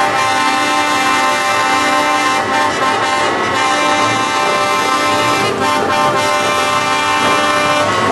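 Several truck air horns sounding together in a loud, continuous chord of held tones, the lower notes breaking off and starting again every second or so.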